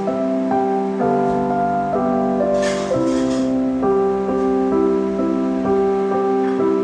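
Background piano music, single notes moving over held chords, with a brief hiss near the middle.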